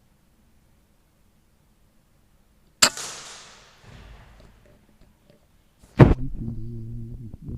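Two pre-charged pneumatic air rifle shots about three seconds apart. The first has a hiss trailing off for about a second. The second, louder one is followed by a low hum for about a second and a half.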